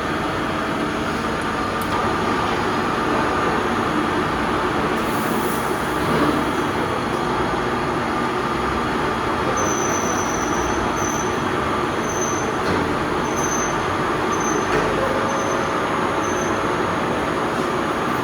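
Metal lathe running: a steady mechanical whirr and hum. In the second half come a series of short, high-pitched squeals about a second apart.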